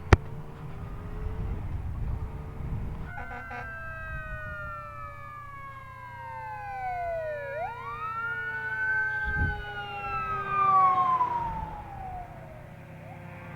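An emergency vehicle's siren comes in about three seconds in. Its wail sweeps down, dips sharply, rises again and then falls away as it passes.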